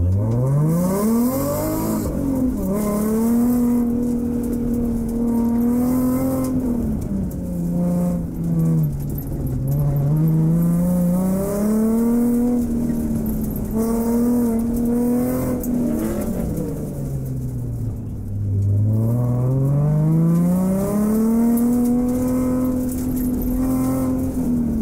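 BMW E36 M3's straight-six engine being driven hard, its note climbing, holding high for a few seconds, then dropping away, three times over.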